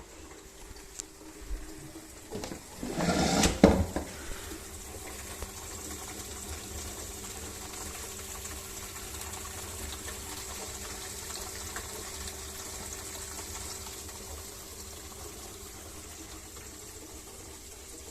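Reef aquarium's overflow and sump plumbing gurgling: a loud gurgling, gulping burst about three seconds in, then a steady rush of water draining.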